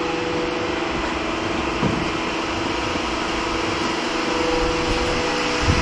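An engine running steadily at a constant speed, an even mechanical drone with a steady hum, with a brief knock about two seconds in and another near the end.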